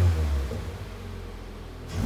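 Toyota GR86's 2.4-litre flat-four exhaust through a GR Sport muffler: the revs fall back from a throttle blip, the engine idles for about a second, then a new rev begins near the end.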